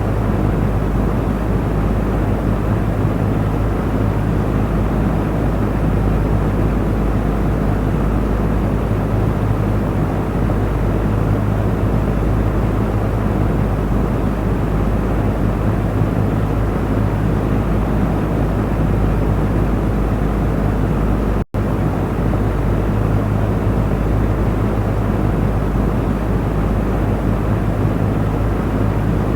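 Electric cooling fan running steadily: an even whooshing rush of moving air over a constant low motor hum. The sound drops out for a split second about two-thirds of the way through, then carries on unchanged.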